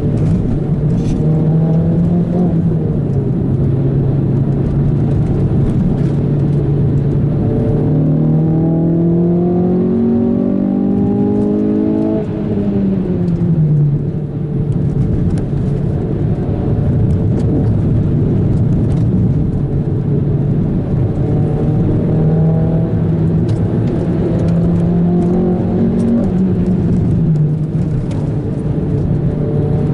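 Renault Clio 197 R27's 2.0-litre four-cylinder engine with an Akrapovic exhaust, heard from inside the cabin as it is driven, over steady tyre and road noise on wet tarmac. The engine note climbs for several seconds about a third of the way in, then falls away sharply, and rises and drops again near the end.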